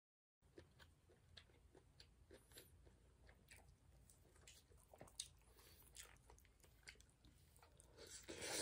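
A person chewing food close to the microphone: faint, irregular small mouth clicks and smacks, with a brief louder hiss near the end.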